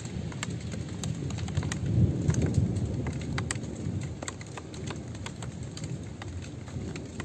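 Steady rain, with many scattered sharp drops ticking on a surface over a continuous low rumble that swells about two seconds in.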